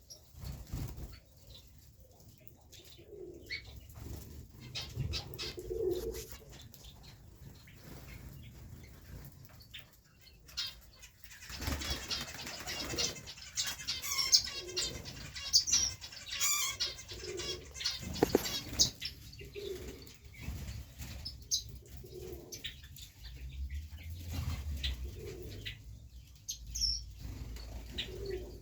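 Pigeons cooing every few seconds, with bouts of wing flapping and a busy stretch of high chirping in the middle.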